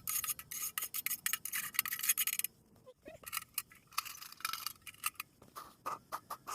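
A metal poker scraping and clinking inside the small steel firebox of a Winnerwell Nomad camping stove, raking out ash. A quick run of scrapes and clinks lasts about two and a half seconds, then comes a short pause, then sparser single clinks.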